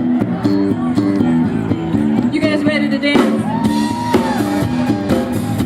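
Live band playing a groove: a repeating pattern of guitar and bass notes, with one higher note held for about a second past the middle.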